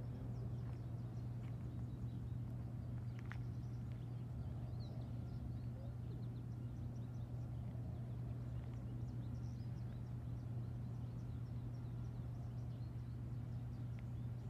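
Faint outdoor ambience: small birds chirping in short, scattered calls over a steady low hum, with one sharp tick about three seconds in.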